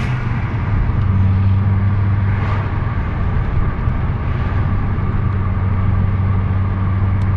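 Turbocharged 2.3-litre five-cylinder engine of a Volvo V70R with a 19T turbo, running at a steady, even speed with road noise and no revving.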